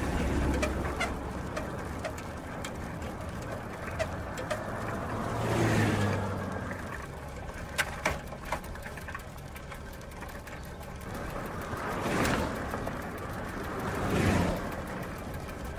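Bicycle wheel and drivetrain spinning: a steady run of fine, rapid ticks from the freewheel and chain, with a few sharper clicks about eight seconds in and three swells in level around six, twelve and fourteen seconds.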